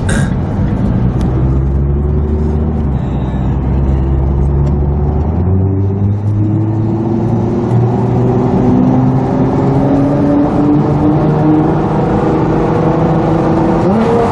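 Nissan GT-R R35's twin-turbo V6 through an Armytrix titanium valvetronic exhaust, heard from inside the cabin. The exhaust drones loudly while the car accelerates, its pitch climbing slowly, with a change in the low note about five seconds in.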